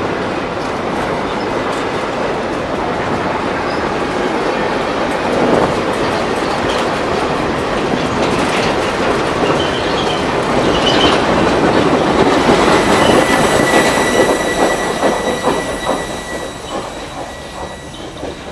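Freight train's hopper cars rolling past close by: a steady rumble with wheels clacking over the rail joints. Past the middle a high, thin wheel squeal sounds for a few seconds, and the noise fades near the end.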